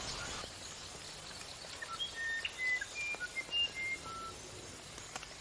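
Birds chirping: a run of short whistled notes at changing pitches, starting about two seconds in, over a faint steady hiss.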